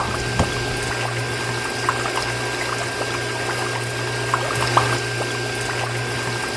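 Small electric water pump running with a steady hum and a thin steady whine, while water pours and splashes with small scattered drips.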